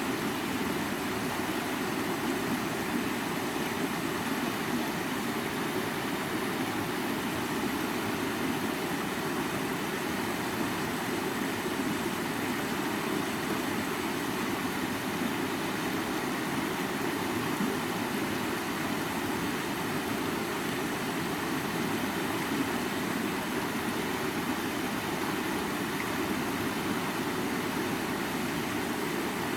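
River water flowing: a steady, unbroken rushing noise, fuller in the low-middle range.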